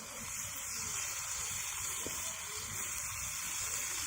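Steady sizzling hiss of food cooking over heat, with a faint tick about two seconds in.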